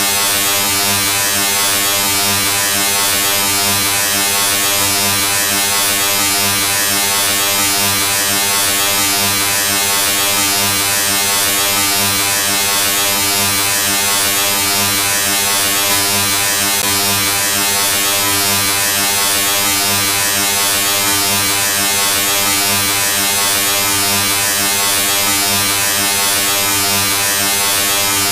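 A steady electric buzz: a low hum with many even overtones and a hiss above it, unchanging throughout.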